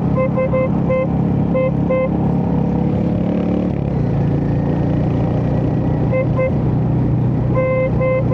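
Royal Enfield Hunter 350's single-cylinder engine running on the road, its note dropping about four seconds in. Short repeated beeps sound over it in the first two seconds and again near the end.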